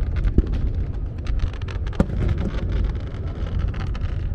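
Aerial fireworks going off: a continuous low rumble of shell bursts with dense crackling and sharp pops, the sharpest about two seconds in.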